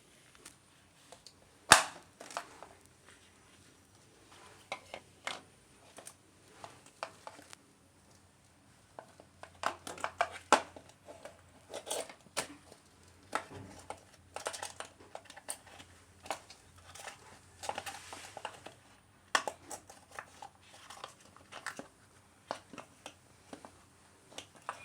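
Irregular handling noises from repair work on a front-loading washing machine: scattered clicks and knocks with bursts of crinkling and rustling. A sharp knock about two seconds in is the loudest.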